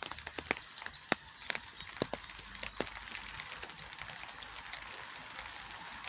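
Rain falling: a steady hiss, with individual drops striking close by as irregular sharp ticks, several a second.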